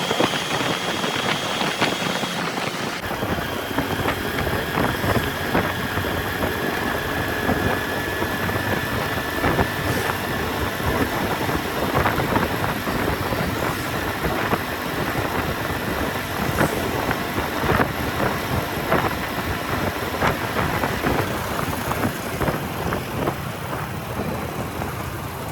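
Motorcycle riding through traffic, heard from a helmet camera: the engine running under a steady wash of wind and road noise, with more low rumble from about three seconds in. A faint steady whine sits in the mix through most of it.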